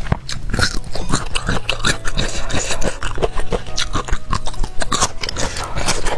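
Biting and crunchy chewing of a cooked golden bamboo shoot, close to the microphone: many quick, irregular crunches, with faint background music.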